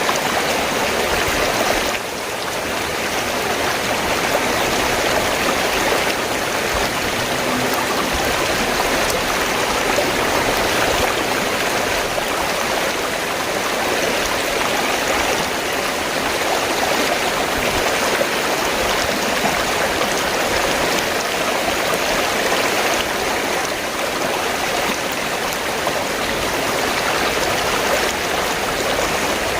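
River water flowing steadily, an even rush of water noise, dipping slightly for a moment about two seconds in.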